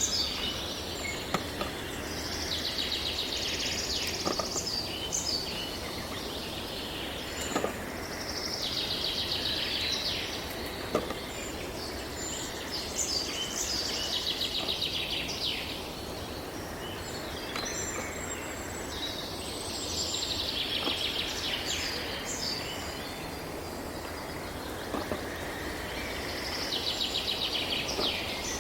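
Outdoor nature ambience: a bird trills in rapid chirping phrases about two seconds long that come back roughly every six seconds, over a steady background hiss.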